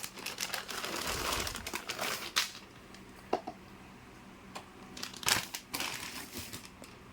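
Packaging rustling and crinkling as it is handled, in two spells: one in the first couple of seconds and another around five to six seconds in, with a few sharp clicks between.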